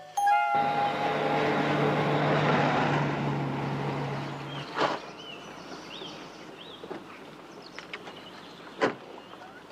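A car engine running for about four and a half seconds, then cutting off. After that comes quiet open-air ambience with a few bird chirps and a couple of sharp knocks.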